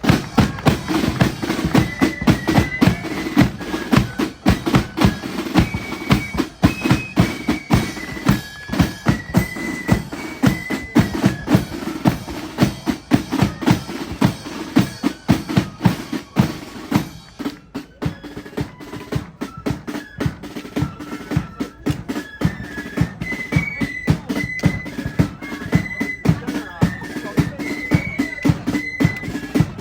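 Marching flute band playing: a high flute melody over rapid, steady snare and bass drum beats. The flute melody breaks off briefly about halfway through while the drums carry on, then picks up again.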